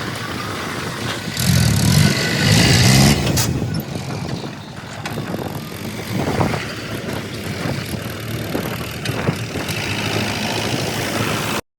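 Diesel engine of a backhoe loader at work, running steadily, with a louder rise and fall in engine pitch about two to three seconds in. The sound cuts off abruptly near the end.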